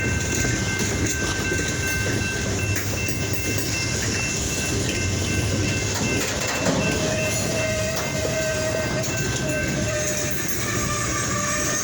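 Train rolling past on the rails, with continuous wheel-on-rail rumble and faint thin squealing tones from the wheels.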